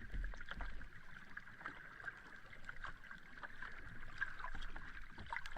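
Sea water lapping and washing at the shore, with a steady fizz and many small crackles, and a low rumble from the water near the start.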